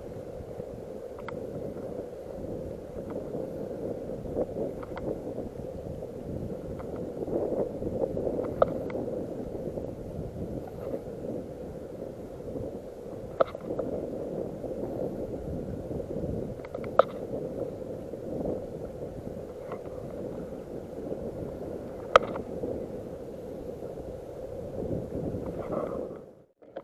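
Water gurgling and slapping around a kayak, with wind on the microphone and a few sharp knocks on the hull or gear.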